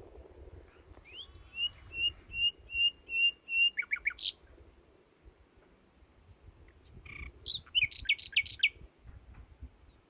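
A songbird singing two phrases: a run of about six evenly repeated notes ending in a quick flourish, then, about three seconds later, a short burst of quick sweeping notes.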